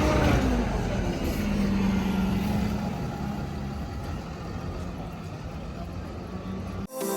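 Motor vehicle engine and road noise, steady, with an engine note falling away just as it begins. It cuts off abruptly near the end into electronic dance music.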